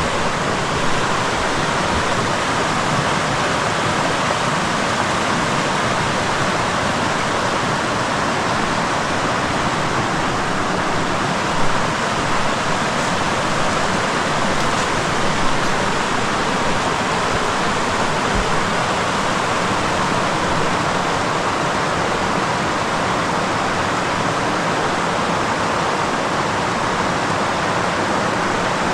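Steady rushing of a creek and waterfall, an even roar of water.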